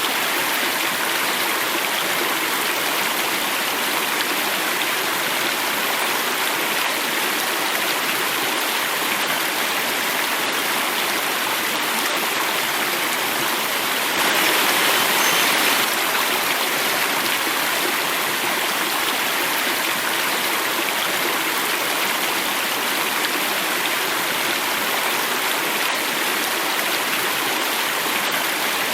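Water flowing and falling over a cascade: a steady rush, a little louder for a moment about halfway through.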